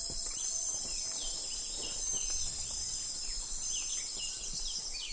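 A steady, high-pitched chorus of trilling insects, with many short bird chirps scattered over it, most of them near the end.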